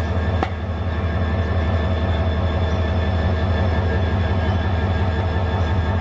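Mymensingh Express passenger train running, a steady low rumble with a single click about half a second in.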